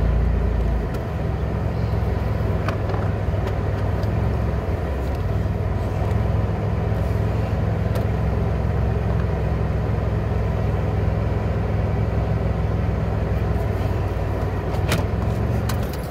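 Car running, heard from inside the cabin: a steady low engine drone with road or cabin noise over it.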